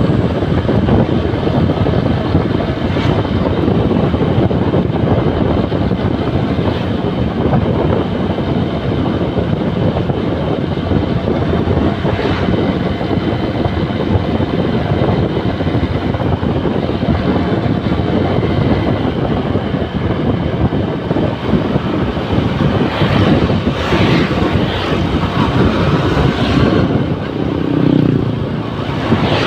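Honda New Megapro motorcycle's single-cylinder engine running steadily under way, with heavy wind rush on the microphone.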